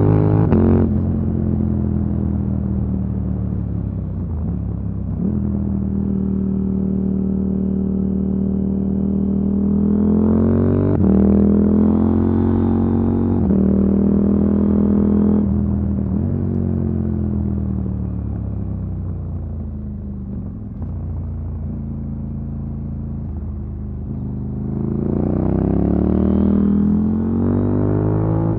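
KTM Duke 890 R parallel-twin engine breathing through an Akrapovic silencer and decat pipe, heard onboard while riding. It runs at steady revs, climbs through the gears with stepped pitch changes about ten seconds in, and winds down on a falling note. It revs up again near the end.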